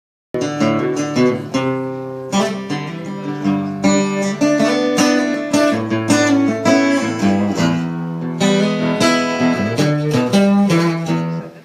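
Acoustic guitar strumming chords with no singing; it starts a moment in and stops near the end.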